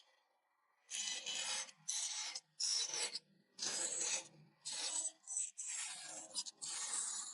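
A tool cutting into a wooden board, in about seven separate strokes of under a second each after a short pause.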